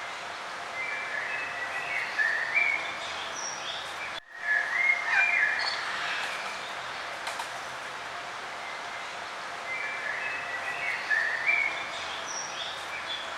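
Songbirds singing in short warbled phrases over a steady background hiss, with a brief dropout a little over four seconds in.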